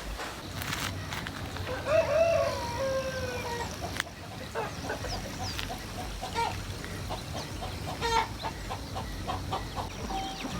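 A rooster crowing once about two seconds in, followed by a run of short calls and chirps, over the steady rush of a river.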